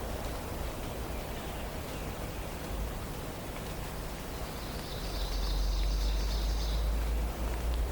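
Steady forest background hiss with a low rumble, and about five seconds in a songbird gives a high, rapid trill lasting under two seconds.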